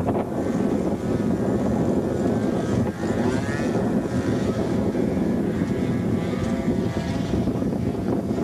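Radio-controlled model float plane's engine and propeller whining as it flies by, the pitch wavering and loudest about three and a half seconds in, under heavy wind noise on the microphone.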